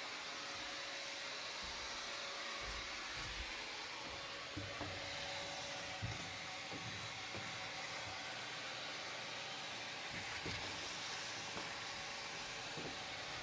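Steady hiss with a few faint, soft low knocks scattered through it, the loudest about six seconds in.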